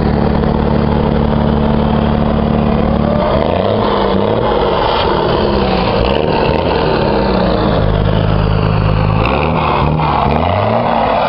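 A car engine held at steady revs, then revved up and down over and over from about three seconds in.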